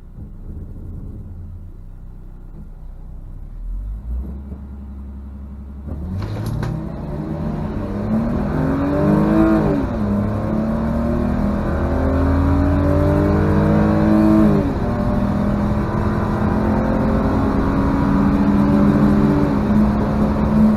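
2001 BMW 330i's straight-six engine idling, then launching hard down a drag strip. The revs climb steadily through the gears, with sudden drops at upshifts about nine and fourteen seconds in, and a long final pull near the end.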